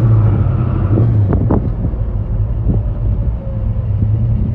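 1965 Pontiac GTO's V8 engine running steadily during a test drive in a low gear, with a couple of brief sharp sounds about a second and a half in.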